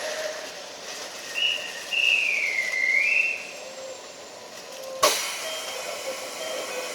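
Train at a standstill with a steady hiss of air, a whistle that dips in pitch and rises again, then a sharp thump about five seconds in.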